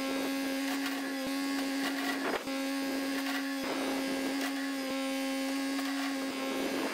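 A small tractor running steadily with a constant whine, and a few faint knocks as it loads horse manure into a dump trailer.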